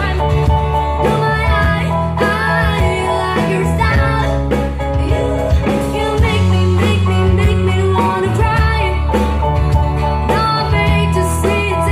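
Live band music with a singer: a sung melody over guitar and a steady, heavy bass line.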